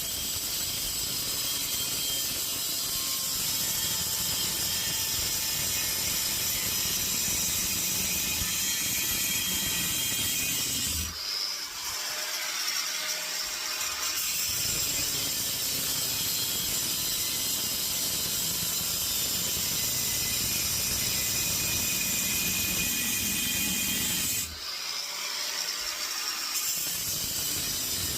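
Power tool cutting into the steel casing of a scrap compressor, a steady rattling run that stops twice for two or three seconds, about 11 and 24 seconds in.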